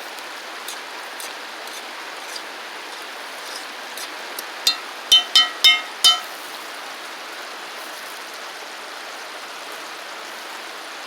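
Steady rain hiss with scattered drop ticks. About halfway through, a quick run of five short, loud pitched notes rises above it.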